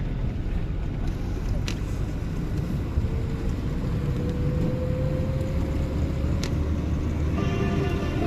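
Low, steady rumble of a vehicle running, with a tone that slowly rises in pitch over a few seconds and two brief clicks. Music comes in near the end.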